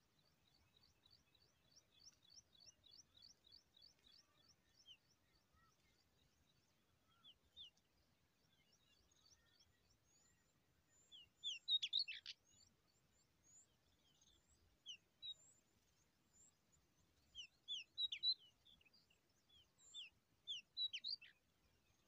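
Small birds chirping: a fast, thin trill of short high notes for the first few seconds, then scattered sharp, high chirps that are loudest about halfway through and again near the end.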